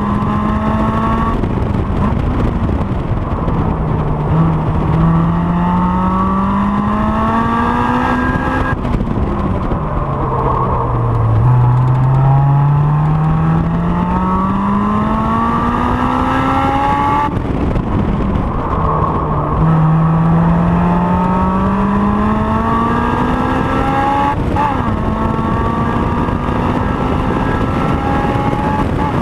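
Honda S2000's four-cylinder engine being driven hard on a race circuit. Its note climbs steadily under load, then falls away as the revs drop, three times over, against steady wind and road noise.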